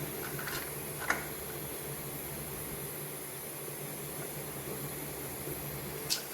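Steady background hiss with a faint low hum, broken by a couple of light clicks in the first second or so.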